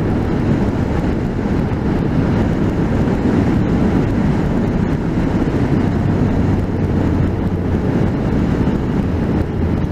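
Motorcycle on the move, heard through a microphone inside the rider's helmet: a dense low rush of wind and road noise with the engine's steady low hum underneath.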